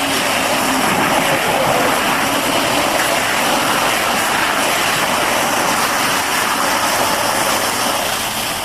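Steady rushing spray of a water jet washing down a Caterpillar bulldozer, the water hitting the machine's steel.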